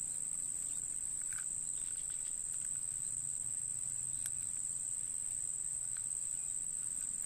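Insects shrilling in one steady, unbroken high-pitched tone, with a few faint ticks.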